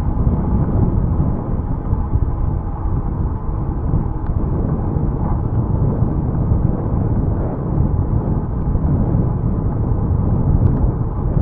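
Wind buffeting the microphone of a camera on a moving bicycle: a steady low rumble that swells and dips unevenly.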